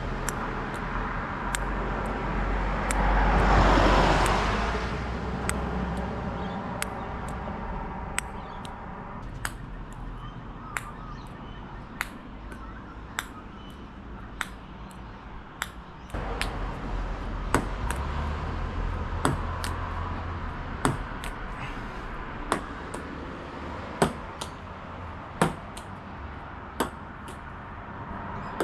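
Sharp clicks repeating evenly about once every second and a half over a steady low hum, with a swelling whoosh about four seconds in.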